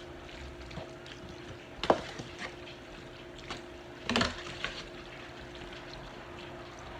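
Quiet kitchen handling sounds over a faint steady hum: two sharper knocks, about two and four seconds in, with a few light ticks between them.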